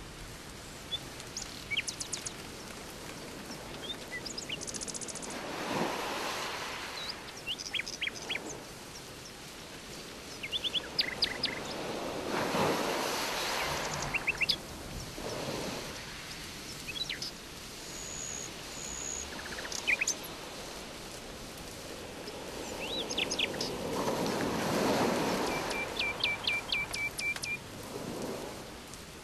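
Nature ambience: a steady rushing water sound that swells and fades three times, with birds chirping in short, rapid trills throughout.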